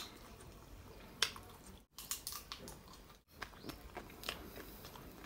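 Chewing and crunching bites of a crisp grilled rice-paper Vietnamese pizza, a scatter of short crackly crunches at uneven intervals, broken by two brief cuts to silence.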